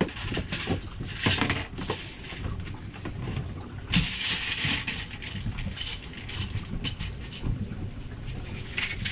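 Salt and pepper being ground onto food: a series of short crunching, grinding bursts, the longest about four seconds in, over a low steady rumble of wind or boat noise.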